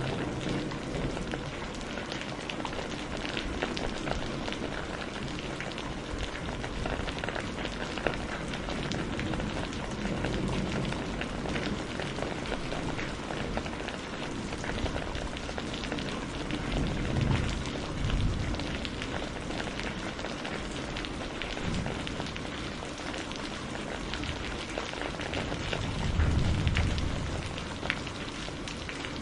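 Steady rain falling: a dense hiss of countless fine drop ticks. Brief low rumbles swell up twice, about two-thirds of the way through and again near the end.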